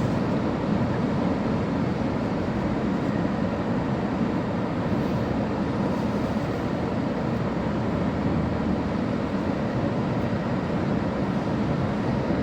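A vehicle driving at speed on a highway: a steady, even rumble of tyre, engine and wind noise that holds unchanged throughout.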